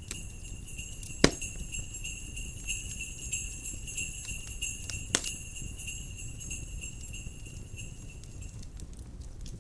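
Jingle bells shaking continuously in a steady shimmer, stopping about a second before the end, over a crackling wood fire that gives two sharp pops and a low steady rumble.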